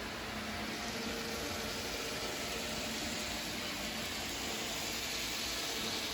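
Model train running on its layout track: a steady whirring hiss of the motor and wheels on the rails, growing a little louder near the end.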